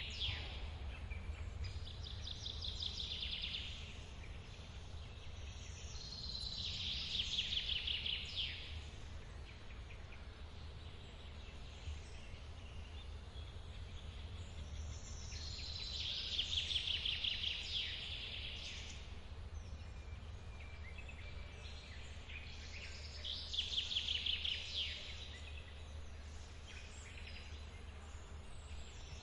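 A songbird singing a quick phrase of rapidly repeated notes, about two seconds long, four times with long pauses between. Under it, the steady low rush of a forest waterfall.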